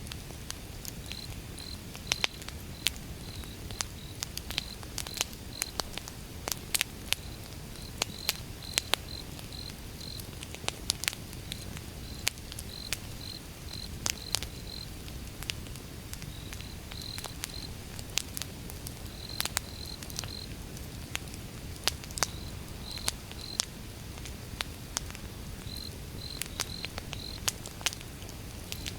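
Outdoor wood fire crackling, with frequent sharp pops of varying loudness over a low steady rumble of burning. A cricket chirps in short high repeated notes throughout.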